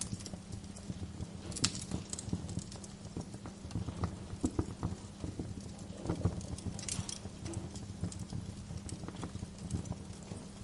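Wood fire crackling in a fireplace: irregular pops and snaps over a low steady rumble, with sharper bursts of crackles about a second and a half in and again around seven seconds.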